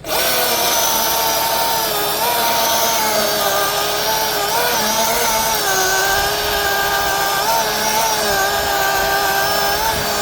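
Milwaukee battery-powered chainsaw starting abruptly and running at full speed through wood, its electric whine wavering slightly in pitch as the chain takes load.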